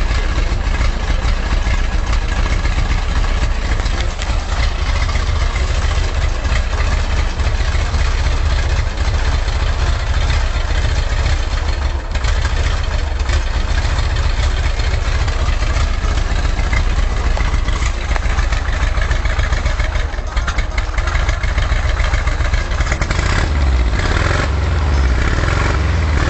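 VW T3 van's flat-four engine running at idle with the exhaust silencer fitted, a steady loud rumble whose low end grows stronger near the end.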